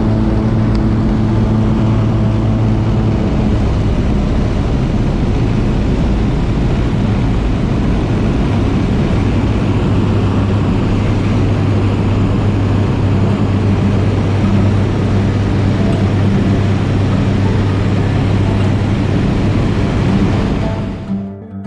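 Float plane's engine and propeller running loud and steady, a deep drone with a hum whose pitch shifts about three or four seconds in. It fades out just before the end as guitar music comes in.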